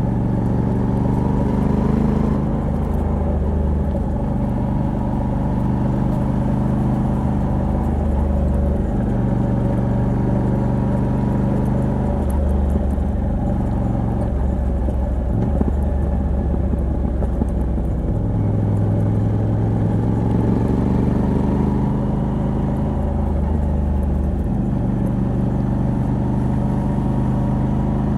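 Moto Guzzi V85TT's air-cooled 853 cc V-twin, on its stock exhaust with a Mistral decat pipe, running on the road. Its engine note rises and falls several times with the throttle.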